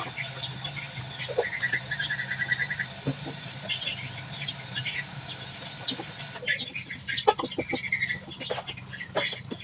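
Small birds chirping, including a quick trill about two seconds in, over a steady low hum. Scattered light clicks and knocks run through it, and the background changes abruptly about six seconds in, after which the knocks come more often.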